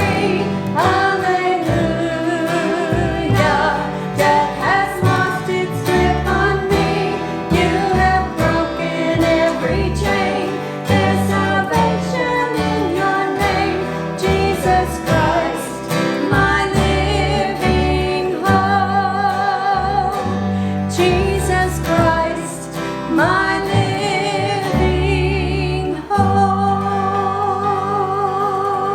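A gospel song sung with vibrato over instrumental accompaniment, ending on a long held note near the end.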